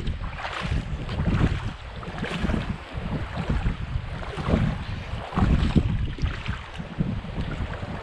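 Gusty wind buffeting the microphone in uneven swells, with lake waves washing against the shore behind it.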